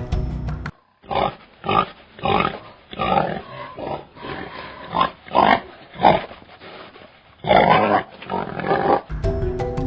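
An animal making a series of short, separate calls, about one or two a second, with a longer call near the end. Music plays briefly before and after.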